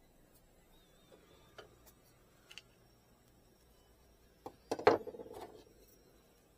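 Light clicks and taps of small hard objects being handled: a few scattered ones, then a quick cluster of sharper clicks about five seconds in, the loudest of them.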